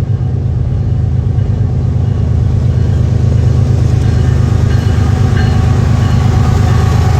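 Diesel locomotive passing close, its engine making a loud, steady low drone.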